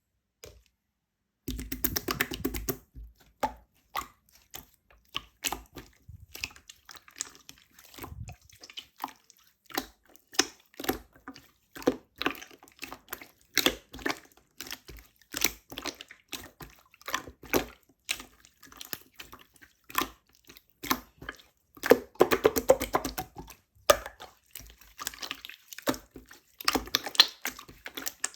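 Opaque slime being squished and pressed by hand: an irregular stream of clicks and pops that starts after about a second and a half of silence, with denser, louder squelching about two seconds in and again around twenty-two seconds.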